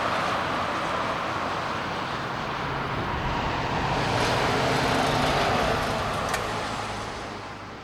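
Jet engines of a taxiing Boeing 787-9 running at idle thrust: a steady rush with a faint low hum, fading out near the end.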